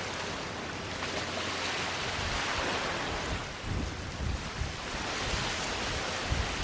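Sea waves washing onto a sandy beach: a steady rush of surf that swells and eases every couple of seconds. Low rumbles of wind on the microphone come in during the second half.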